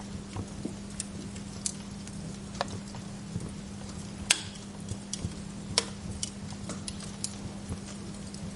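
Wood fire crackling in a fireplace: scattered sharp pops and ticks at irregular intervals, one louder snap about four seconds in, over a steady low hum.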